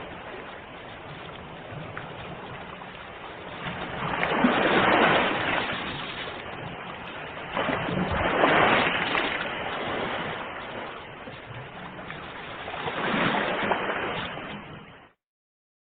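Ocean waves surging and breaking on the shore, three waves swelling up and washing back in turn. The sound cuts off suddenly near the end, leaving a second of silence.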